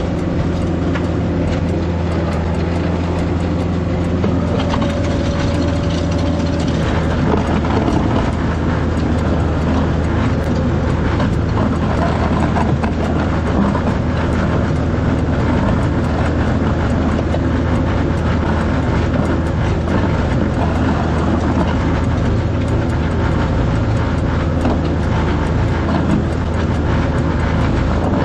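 Tractor engine running steadily, a constant low drone with mechanical clatter.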